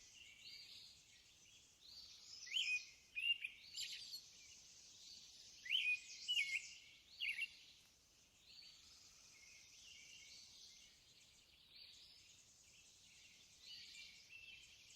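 Faint birdsong: scattered chirps and short whistled calls, busier a couple of seconds in and again around the middle, over a soft steady background hiss.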